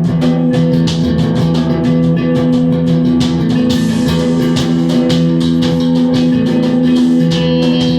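Guitar and drum kit playing rock together, the guitar holding sustained chords over steady, busy drumming with cymbals.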